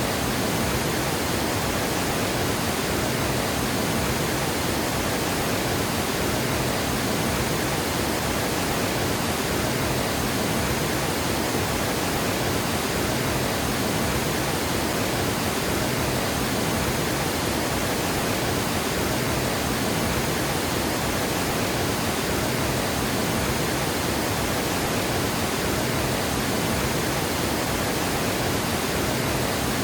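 Water gushing over a dam: a loud, steady, unbroken rush of falling water.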